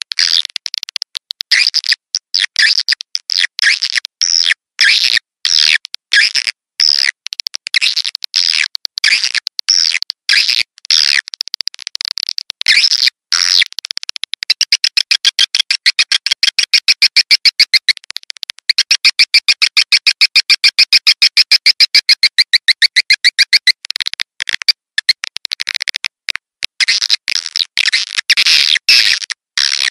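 Swiftlet lure call: a recording of swiftlet twittering played back to draw the birds to a nesting house. It is dense, high, rapid chirping and clicking, with a long run of fast, evenly spaced chirps through the middle.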